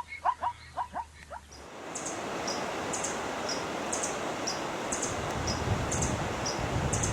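An animal's short, rapid calls, about four a second, which stop after about a second and a half; then a steady rustling hiss with a faint high chirp repeating about twice a second.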